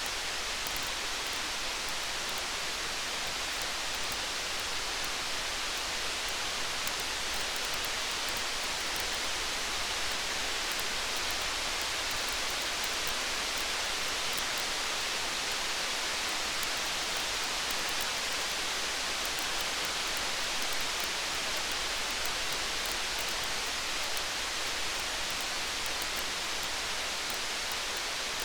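Steady rain hiss with faint small crackles of a wood fire, even and unchanging throughout.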